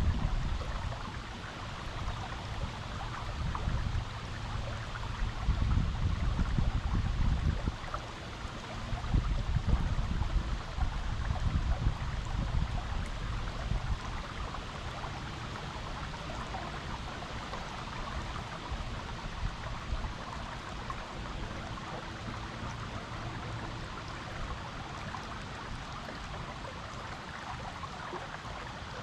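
Creek water flowing steadily over rocks: a constant rushing babble. Uneven gusts of low rumble come and go through the first half, then the sound evens out.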